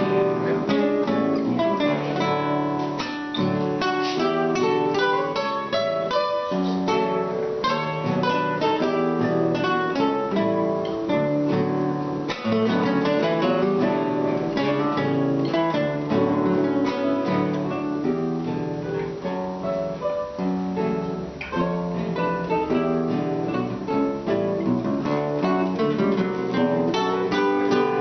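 Acoustic guitars playing an instrumental passage, fast picked notes over strummed chords.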